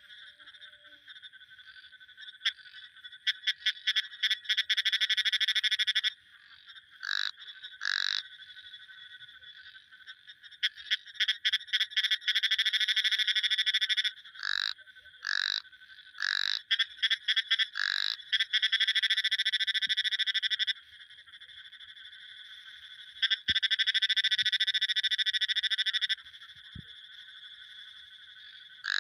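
Frogs calling: loud, rapidly pulsed trills lasting a few seconds each, a fainter trill carrying on between them, and several short single notes in the gaps.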